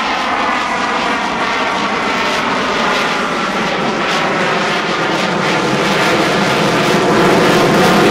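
Boeing F/A-18 Super Hornet jet fighter flying a display pass, its twin jet engines making a loud, steady rushing noise with a whine, growing a little louder near the end.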